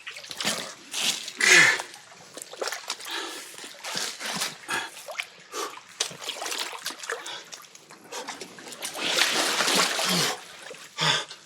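Water splashing and sloshing irregularly as a person wades into a deep pool until out of depth, with a longer, louder stretch of splashing near the end.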